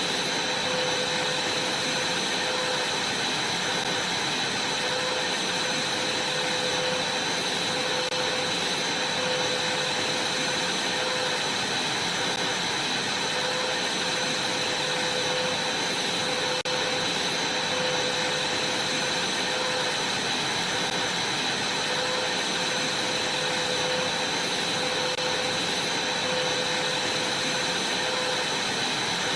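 Vacuum cleaner running steadily: a constant whooshing hiss with a steady high whine over it.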